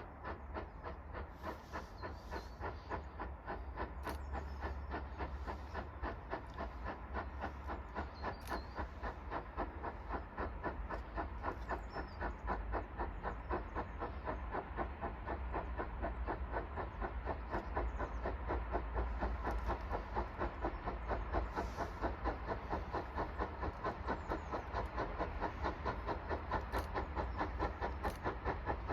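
GWR 2800 class 2-8-0 steam locomotive working a train, its exhaust beats chuffing in a steady rapid rhythm that grows louder as it approaches.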